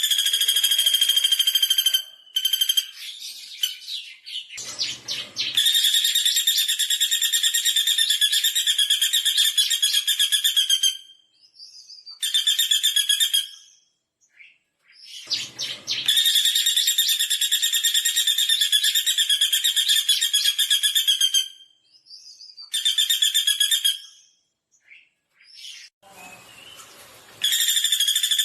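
Pelatuk bawang woodpecker calling: long, fast trilled rattles lasting several seconds each, repeated with short breaks, with a few shorter bursts between them.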